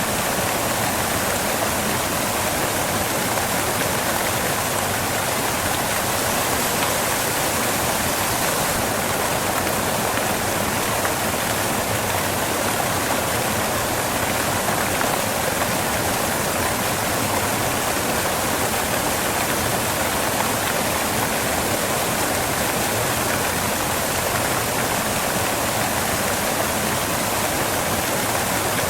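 Waterfall crashing onto rocks: a steady, even rush of falling water.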